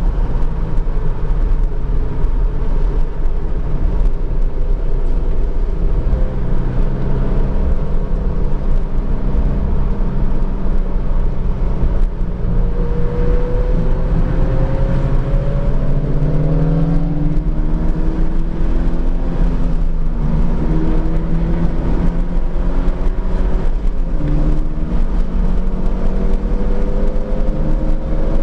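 Subaru BRZ's flat-four engine and road noise heard from inside the cabin at track speed. From about halfway through, the engine note climbs and drops back several times as the car accelerates and shifts.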